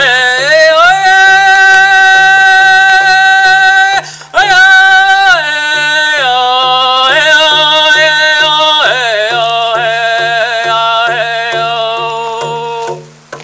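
A man singing a Native American spiritual chant in long held notes that slide between pitches, over a steady drum beat of about two to three strokes a second. The voice breaks off briefly about four seconds in and stops shortly before the end, leaving the drum going.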